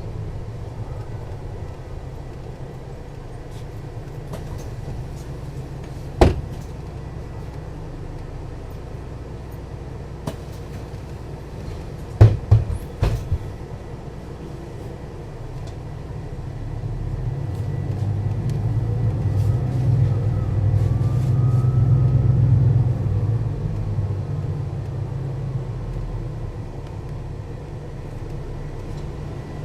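Mercedes-Benz O 530 Citaro city bus's diesel engine running low and steady, with a few sharp knocks about six seconds in and a quick cluster of three around twelve to thirteen seconds in. From about sixteen seconds in the engine pulls harder and grows louder, peaking a little past twenty seconds, then eases back.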